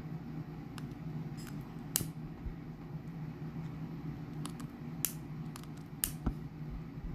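A handful of short, sharp clicks and taps, about eight, scattered irregularly over a steady low hum.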